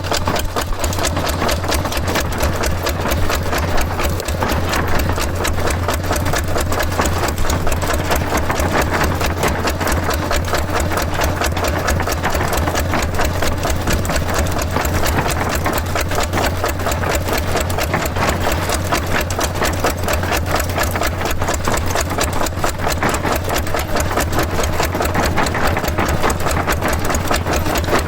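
Small engine running steadily with a fast, even chugging.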